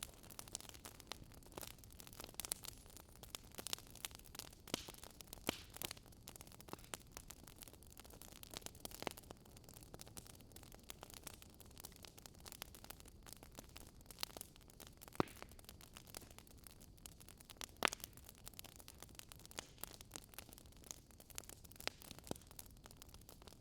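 Faint crackling of a burning wood fire: irregular sharp pops and snaps over a low hiss, a few louder pops standing out.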